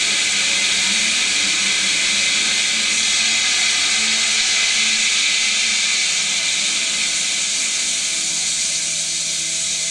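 Rocket engine water flow test: water driven by pressurised gas from the tanks rushing out through the injector and nozzle as a loud, steady hiss, easing slightly a little past halfway.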